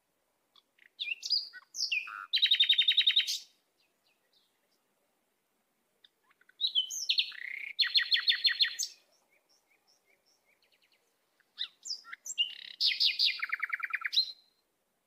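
A songbird singing three phrases, about five seconds apart. Each phrase is a few quick sliding whistles followed by a fast, even trill.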